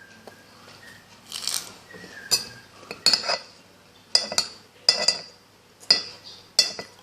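Metal cutlery clinking and scraping against a plate while eating, about seven sharp clinks, some in quick pairs.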